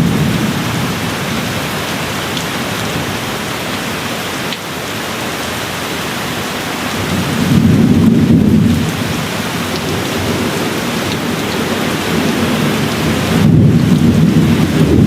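Steady rain hissing, with low, gentle thunder rumbles that swell and fade about halfway through and build again near the end.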